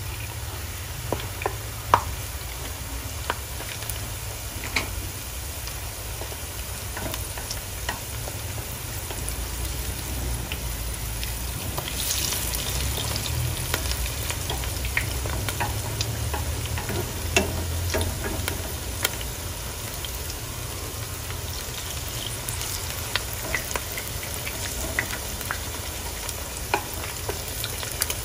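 Battered tiny shrimp fritters frying in hot oil in a pan: a steady sizzle with scattered sharp crackling pops as chopsticks and a spatula lift and turn them. The hiss swells briefly about twelve seconds in.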